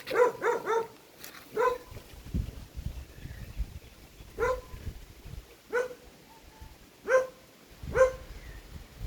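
A dog barking repeatedly: a quick run of about four barks at the start, then single barks every second or so.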